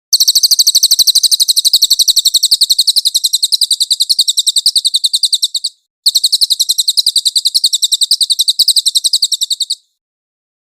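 Cililin bird singing: a fast, high trill of about seven sharp notes a second, in two long runs with a short break about six seconds in.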